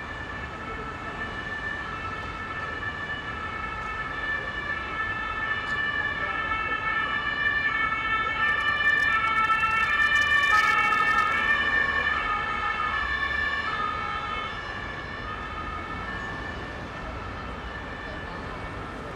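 Ambulance siren sounding a two-tone alternating high–low call as it passes through heavy traffic. It grows louder to a peak about ten seconds in, then fades, over the steady noise of rush-hour road traffic.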